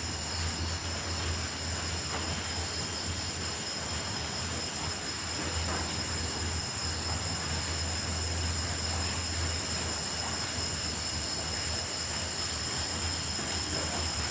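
Night insect chorus of crickets and grasshoppers trilling steadily in several high pitches, over an even hiss and a steady low hum.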